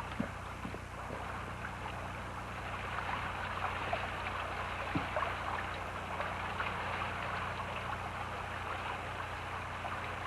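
River water rushing and splashing steadily, with a low steady hum underneath.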